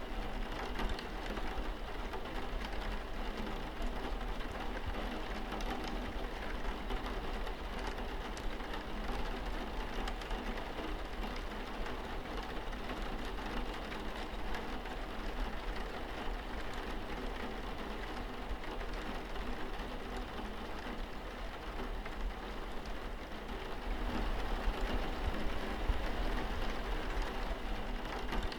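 Steady rain falling on a window, with a constant low rumble underneath that grows a little louder near the end.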